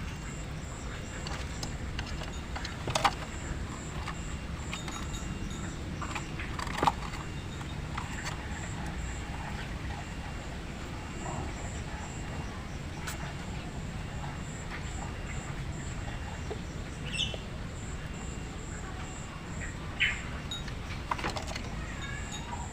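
A few brief bird chirps and occasional sharp clicks over a low, steady background rumble.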